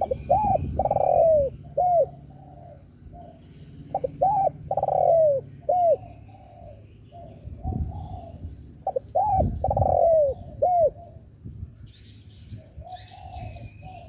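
Spotted dove cooing its song three times, about four to five seconds apart, each phrase a few short arching coos around a longer one, with softer cooing in between. Faint chirps of small birds sound higher up.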